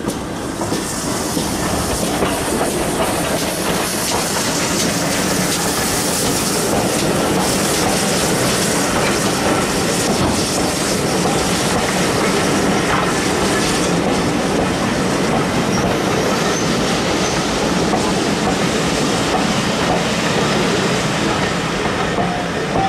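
Steam-hauled heritage passenger train running past close by, a steady loud rumble of the coaches rolling on the rails, with a higher hiss over the first half that dies away as the coaches go by.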